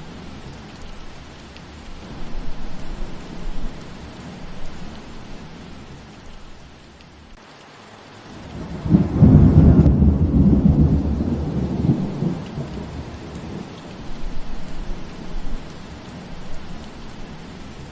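Steady rain falling, with a low roll of thunder about halfway through that swells quickly, rumbles for a few seconds and fades away.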